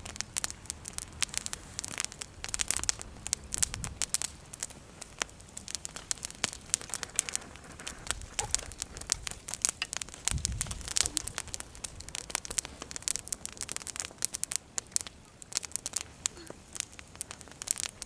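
Wood bonfire crackling, with many irregular sharp snaps and pops from burning branches. Two brief low rumbles come through, about four seconds in and again near the middle.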